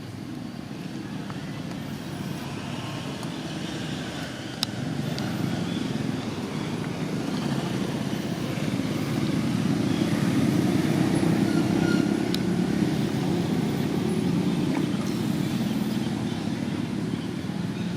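A motor vehicle's engine running as a steady low hum. It grows louder toward the middle and eases off near the end, as a vehicle passing slowly would, with a faint click about four and a half seconds in.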